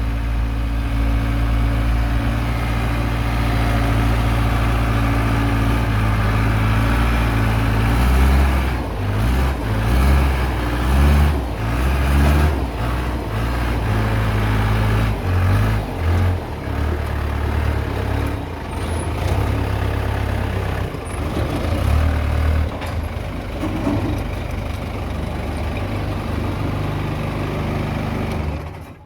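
Case 580D backhoe's diesel engine running steadily, then revving up and down under changing load for several seconds as it works, with a few short knocks and clatters.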